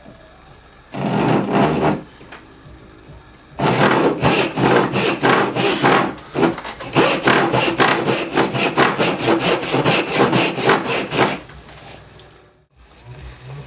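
Hand tool cutting into wood in quick back-and-forth strokes: a short pass about a second in, then a long steady run of rapid strokes that stops shortly before the end.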